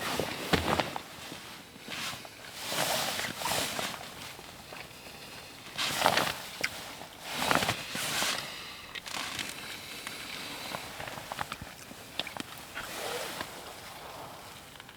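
Irregular crunching and rustling as a person moves about in snow and handles gear, in uneven bursts with pauses between them.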